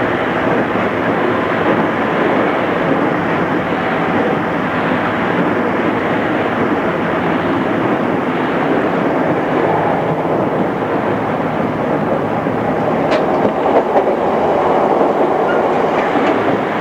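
Interior running sound of a JR East 211 series electric multiple unit at speed: a steady rumble of wheels and car body, with a single sharp click about two-thirds of the way through. The recording is old cassette tape, dull with no treble.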